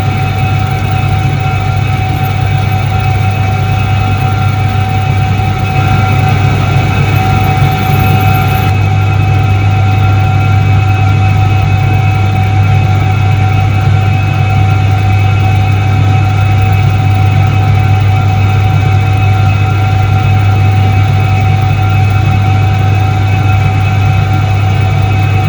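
1978 Soviet Iset-3 washing machine running: a loud, steady motor hum with a deep drone and a few constant higher tones, getting slightly louder about six seconds in.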